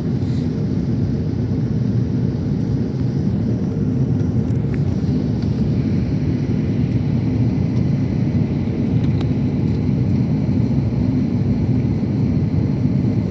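Steady cabin noise of an Airbus A330-900 in flight: an even, low rumble of engines and rushing air.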